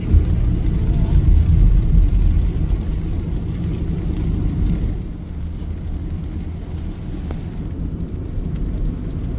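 Low, steady rumble of a motor vehicle running, loudest in the first two seconds.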